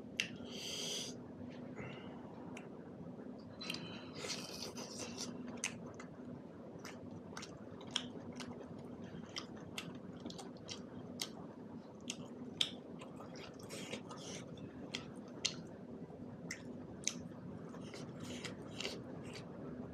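Close mouth sounds of a person chewing buffalo meat and millet dhido eaten by hand, with many short wet smacks and clicks. A faint steady low hum runs underneath.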